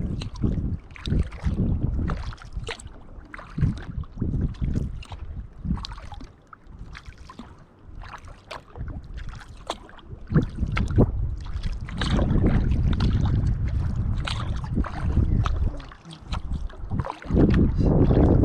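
Kayak paddle strokes splashing and dripping in uneven bursts, with wind buffeting the microphone as a low rumble that grows stronger and steadier later on.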